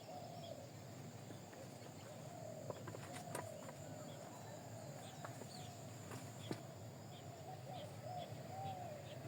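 Several birds calling, with short wavering low-pitched notes repeating one after another, fainter high chirps among them, and a few sharp clicks.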